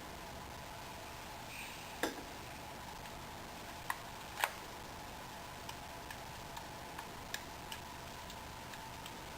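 A series of light clicks and taps over a steady hum: a few sharper ones in the first half, then a run of lighter clicks about half a second apart.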